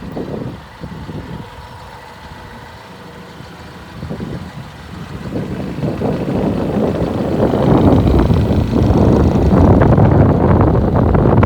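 Caterpillar TH407C telehandler's diesel engine running, growing steadily louder from about halfway through.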